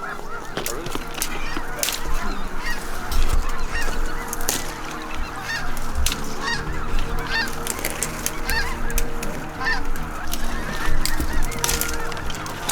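A large flock of wild geese calling, many honks overlapping without a break. Sharp cracks and clicks are heard throughout.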